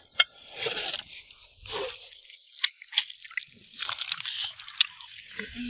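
A man biting into and chewing a piece of stewed pigeon: wet mouth sounds and small clicks in irregular bursts.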